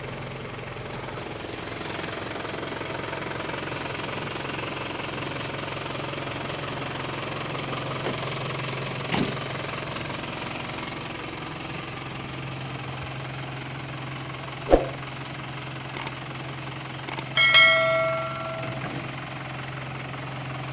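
Isuzu Elf dump truck's 4HF1 four-cylinder diesel running at a steady idle. A few sharp knocks come in the second half, then a short metallic ringing clang near the end.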